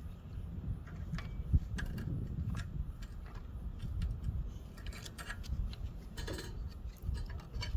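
Scattered light metallic clicks and taps of hand tools on a Briggs & Stratton engine's rocker-arm valve adjusters, over a low steady background hum.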